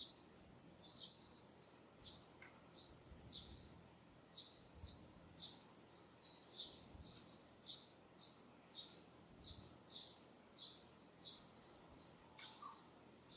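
A small bird in the distance chirping over and over, short high notes at about two a second that grow louder toward the middle. Behind them is faint low wind noise.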